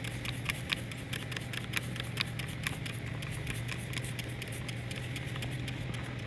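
Trigger spray bottle of Mean Green degreaser pumped over and over, a quick run of short squirts soaking thick grease, thinning out after about three seconds. A steady low hum runs underneath.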